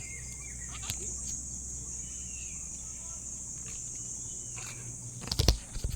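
Steady high-pitched insect buzzing in the background, with a couple of faint short chirps. About five seconds in come several sharp knocks and thumps, the loudest sounds here.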